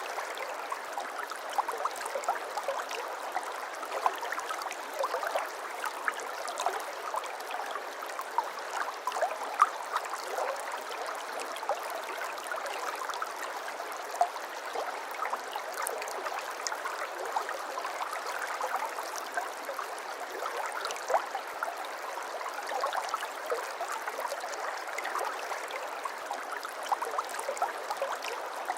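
A small stream babbling and trickling steadily: a continuous light rush of flowing water, full of tiny splashes and plinks.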